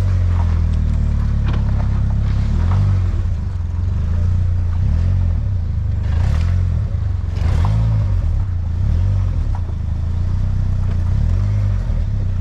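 A vehicle engine running steadily at low revs, a deep drone with a slow, regular waver.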